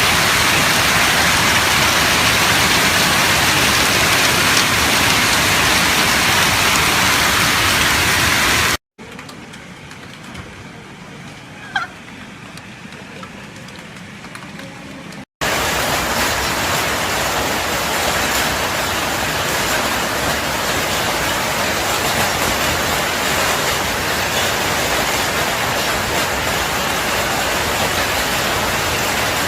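Heavy rain pouring down in a steady loud rush. About nine seconds in it cuts to a much quieter stretch with one short sliding sound, and about fifteen seconds in the loud rush returns.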